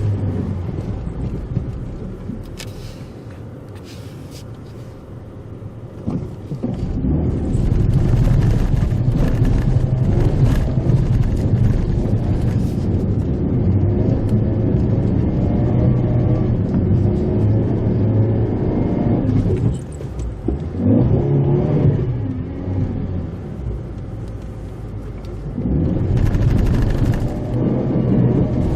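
Mitsubishi Pajero Mini kei 4x4 driving on a rough forest road: the engine runs steadily under load, easing off a couple of seconds in and pulling harder again from about six seconds, with short let-offs near the end. Tyres crunch and rumble over the unpaved surface throughout.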